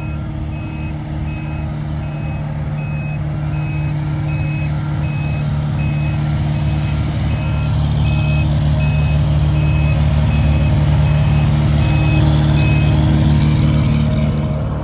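Reversing alarm beeping steadily about twice a second over the running diesel engine of heavy paving equipment. The engine grows louder through the middle, and the beeping stops near the end.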